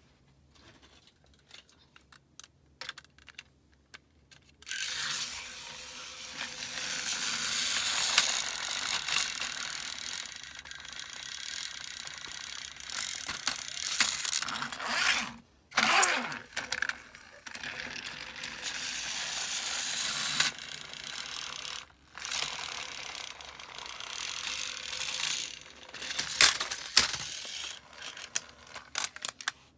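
Small battery-powered toy train motors and plastic gears whirring and clattering, with scattered clicks. The whirring starts about five seconds in and stops briefly several times.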